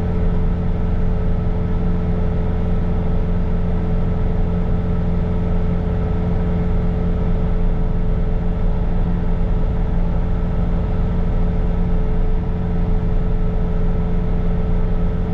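Bobcat T66 compact track loader's diesel engine running steadily while it drives the snow blower attachment, with a constant whine over the engine drone.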